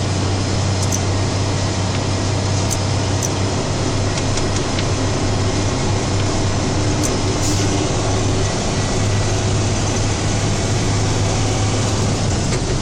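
Plow truck's engine running with steady road noise, heard inside the cab while driving: a constant low hum under an even rushing noise, with a few faint high ticks.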